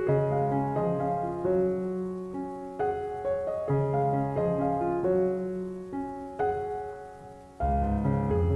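Background piano music: a slow, gentle melody over held chords, with lower bass notes coming in near the end.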